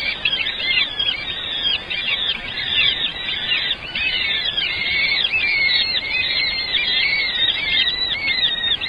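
Many young birds cheeping without a break, their short high calls overlapping into a continuous chorus.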